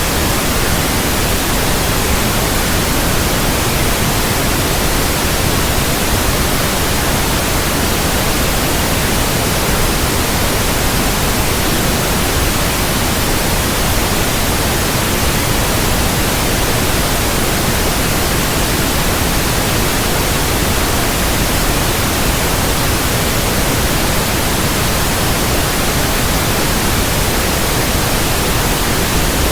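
Steady white noise: an even, unbroken hiss across all pitches.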